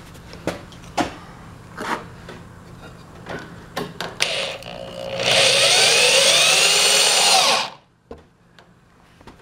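Power drill driving a small screw into pallet wood, running for about two and a half seconds with its pitch wavering under load, then stopping suddenly. Light knocks and clicks from handling the boards come before it.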